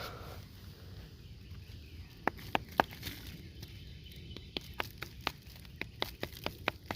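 Footsteps on dry ground outdoors: a few scattered steps, then from about halfway a steady walking pace of two to three steps a second.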